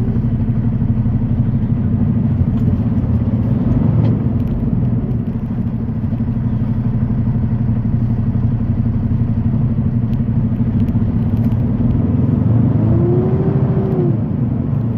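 Semi-truck's diesel engine running at a steady drone under road noise, heard from inside the cab while driving.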